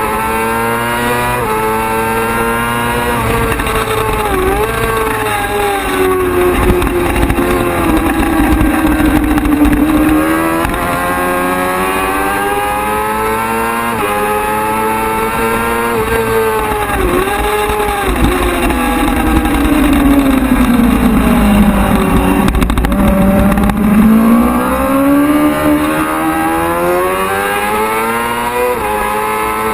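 Superbike racing motorcycle engine at full race pace, its pitch climbing hard under acceleration and falling away as it slows for corners, with quick downshift dips. It drops lowest about two-thirds through, then climbs again.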